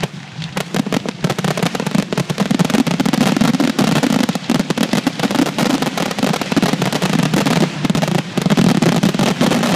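Fireworks grand finale: a continuous barrage of aerial shell bursts and crackling, many loud reports a second with no break. It is slightly thinner for the first half-second, then dense.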